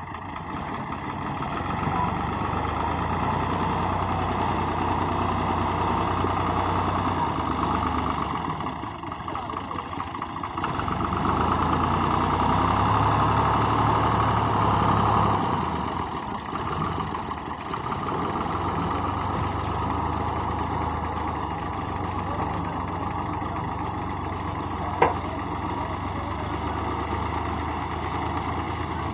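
Al Ghazi tractor's diesel engine running steadily, growing louder for a few seconds in the middle, with a single sharp click near the end.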